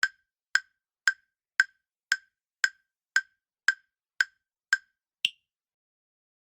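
Countdown-timer tick sound effect: ten sharp wood-block-like ticks about two a second, then a final tick of higher pitch about five seconds in that ends the countdown.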